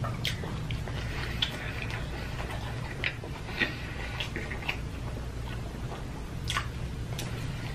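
Close-up wet chewing and mouth-smacking of someone eating a cheeseburger dipped in cheese sauce: scattered sharp smacks and clicks over a steady low hum.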